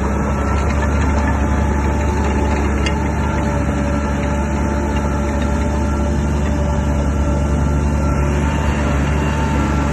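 Shantui DH17 bulldozer's diesel engine running steadily under load, a deep drone with a dense mechanical rattle over it.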